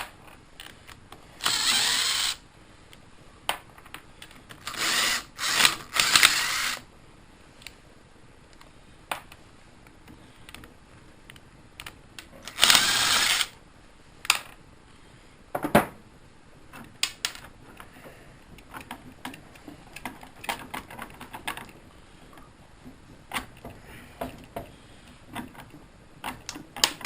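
Cordless impact wrench run in about four short bursts, backing out the exhaust bolts, with clinks and taps of tools and metal parts in between.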